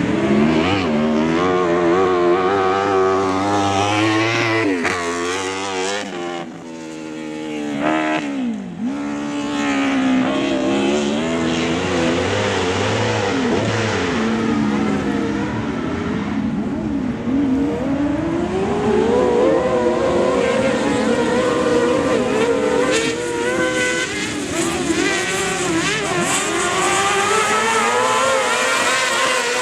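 Several kart cross racing buggies' engines revving hard together, their pitch climbing and dropping again and again through the gear changes, with a short lull about a quarter of the way in.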